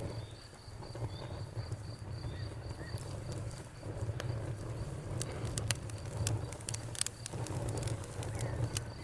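Wood fire in a fireplace crackling, with sharp pops that come thick and fast from about a third of the way in, over a low steady rumble. A few faint bird chirps sound in the background.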